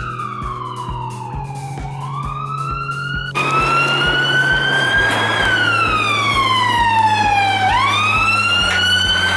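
Electronic siren wailing: a tone slides slowly down and then sweeps quickly back up, twice. It gets suddenly louder about a third of the way in.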